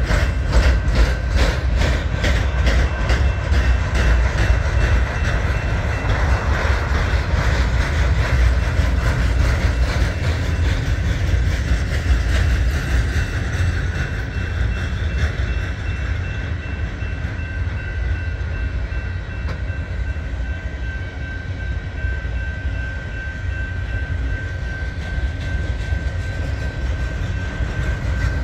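Union Pacific train's railcars rolling past with a steady low rumble. Rapid, even wheel clicks over rail joints stand out for the first several seconds, and a faint steady high-pitched ring comes through more clearly in the second half.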